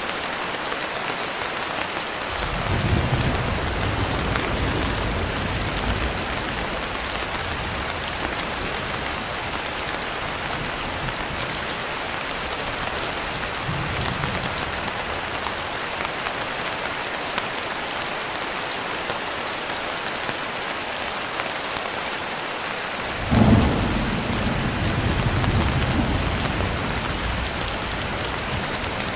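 Steady rain with rolling thunder: a low rumble builds a couple of seconds in and lasts a few seconds, a fainter one comes midway, and a sharper thunderclap about 23 seconds in rumbles on for a few seconds.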